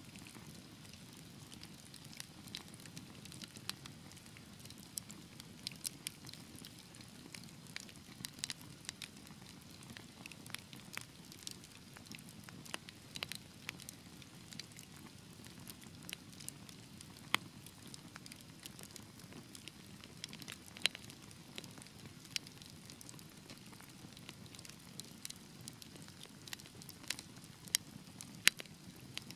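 Wood fire burning in a fireplace, crackling with irregular sharp pops over a steady low rumble of flames. A few pops stand out louder, around the middle and near the end.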